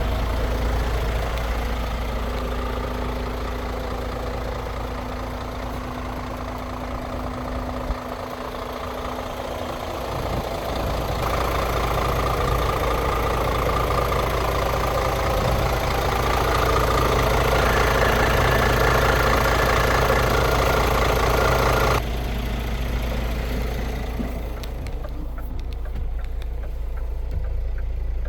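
Scania R500 truck's 13-litre inline-six diesel engine idling. It gets somewhat louder about eleven seconds in and changes abruptly about 22 seconds in.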